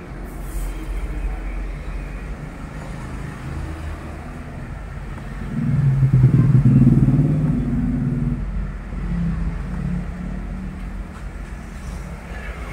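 A motor vehicle engine runs with a steady low rumble. About five seconds in it swells louder with a pitched hum, then fades over the next few seconds.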